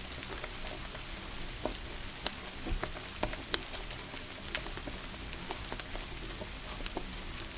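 Steady rain hiss with scattered sharp pops and crackles of a wood fire burning in a fireplace.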